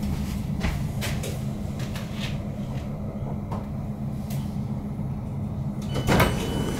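Inside an HSL Sm5 (Stadler Flirt) electric commuter train: a steady low hum with light rattling clicks from the car. About six seconds in there is a loud clunk, and a steady high tone starts as the passenger door is released to open.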